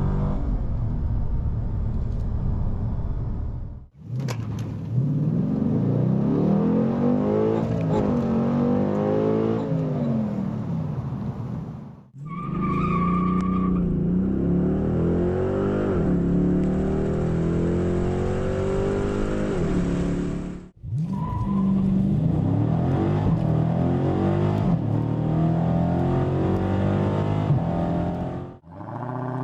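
Dodge Challenger engines under hard acceleration in a string of separate runs. In each, the engine note climbs steadily through a gear, drops back at each upshift and climbs again. Each run ends in an abrupt cut, and a short electronic beep sounds briefly in one run.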